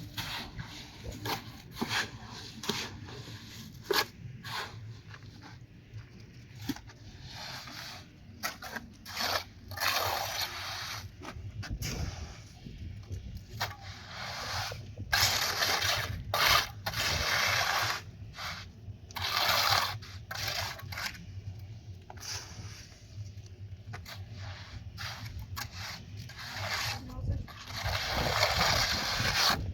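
Irregular scraping strokes, each lasting up to about a second, with a few sharp knocks in between.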